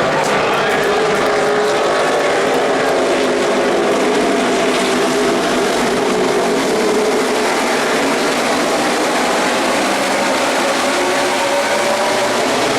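A pack of NASCAR Sprint Cup stock cars running at racing speed past the grandstand. Their V8 engines make a loud, continuous drone of many overlapping pitches that slide as the cars go by.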